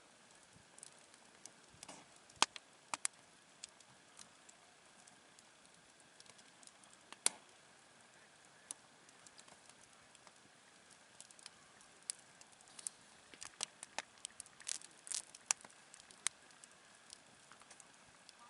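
Wood campfire crackling softly: scattered sharp pops and snaps over a faint steady hiss, coming more often in the second half.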